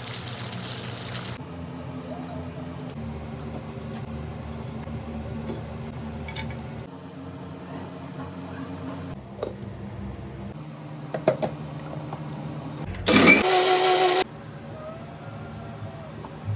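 A steady low hum with a few sharp clicks, then a loud burst of an electric mixer grinder about 13 seconds in. It spins up with a rising whine, runs for just over a second and cuts off suddenly.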